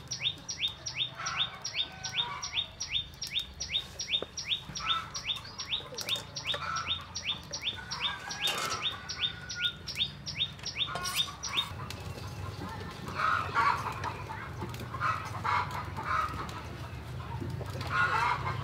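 A bird chirping in a fast, even series, about three short downward-sweeping chirps a second, stopping about twelve seconds in. Chickens cluck now and then, most often in the last few seconds.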